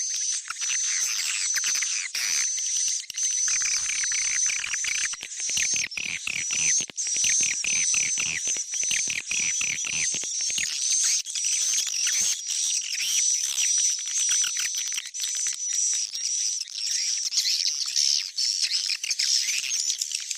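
Recorded swiftlet calls played as a lure track for a swiftlet house: a dense, unbroken chatter of short high chirps and twitters, with a steady high whistling tone running through it.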